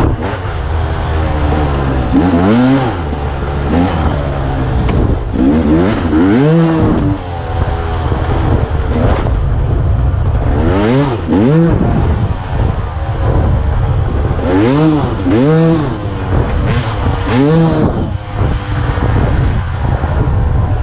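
Dirt bike engine running under riding, revving up and falling back again and again as the throttle is worked, with a steady low engine drone underneath.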